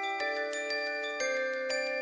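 Background music with bell-like mallet tones, sustained notes changing every half second to a second.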